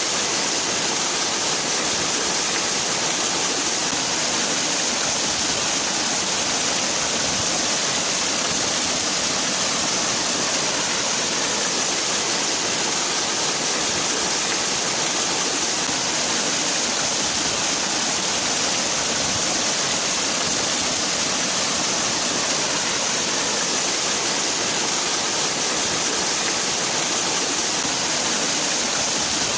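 Waterfall: water falling and splashing in a steady, unbroken rush, strongest in its hiss.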